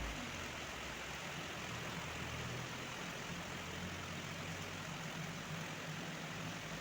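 Heavy rain falling steadily, with a vehicle's engine running at a steady low hum underneath.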